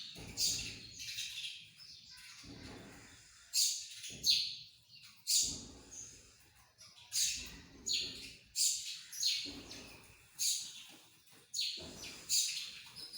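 Small birds chirping: short, sharp, high-pitched chirps repeated at irregular intervals, roughly one a second.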